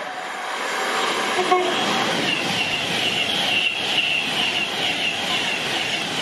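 Train passing at speed close by, loudening over the first second into a steady rush of wheels on rail, with a high wavering whine running through most of it.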